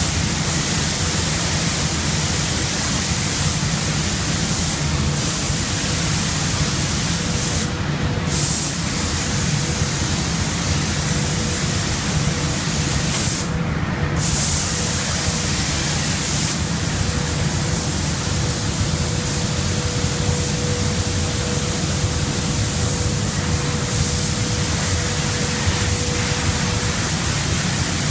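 Paint spray gun hissing steadily as it sprays car door handles, the spray stopping briefly twice, about a third of the way through and again about halfway. A steady low hum runs underneath.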